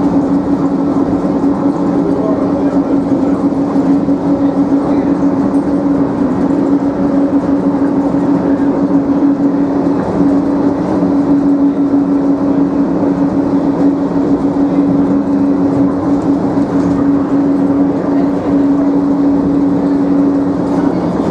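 DFW Skylink automated people-mover train (Bombardier Innovia APM 200) running along its guideway, heard from inside the car: a steady ride noise with a constant low hum.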